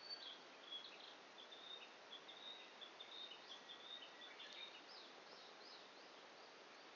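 A small bird singing a quick run of short, high chirps and trills for about five seconds, then stopping, over a faint steady hiss.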